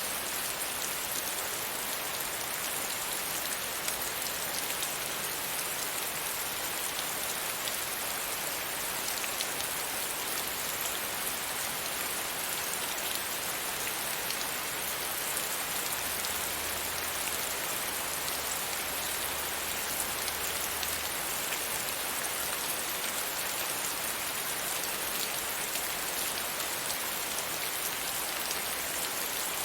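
Steady rain falling and pattering against a window pane, an even hiss dotted with faint drop ticks.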